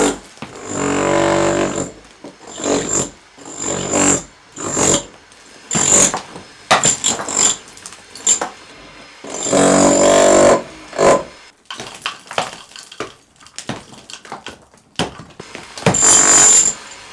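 Electric demolition hammer breaking through brick and masonry in short bursts of about a second or two, with sharp knocks and clatter of loosened brick in between, as a hole is opened through the floor beside the chimney.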